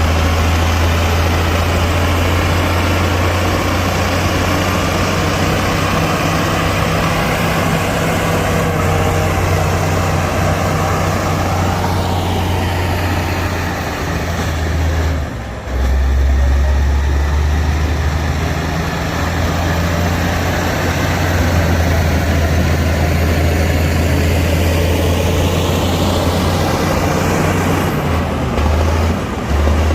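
Heavy diesel engine of earthmoving machinery running steadily with a deep drone. The level dips briefly about halfway through, and the sound sweeps and shifts as the machine moves. It turns choppy near the end.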